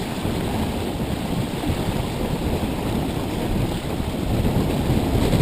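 Wind buffeting the microphone with water rushing along the hull of a Hobie Tandem Island sailing trimaran under way. The noise is steady, with a low rumble throughout.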